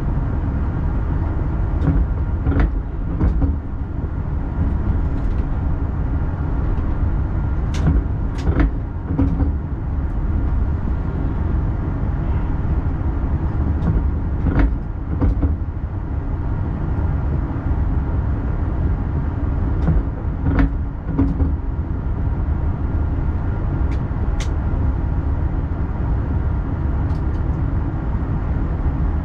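X40 double-deck electric multiple unit running on the rails, heard from the driver's cab: a steady low rumble with sharp clicks and knocks every few seconds, several of them in pairs.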